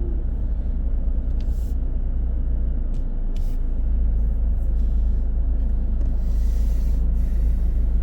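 Steady low rumble of a car driving in city traffic, with a few brief clicks and a short hiss about six seconds in.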